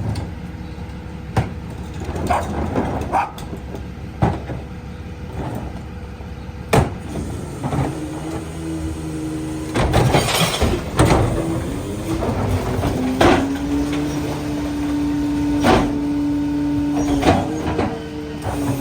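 McNeilus rear-loader garbage truck packing recycling: sharp clanks and knocks of material and metal in the hopper, then from about eight seconds in a steady whine from the packer's hydraulics, which holds to the end amid further clanks.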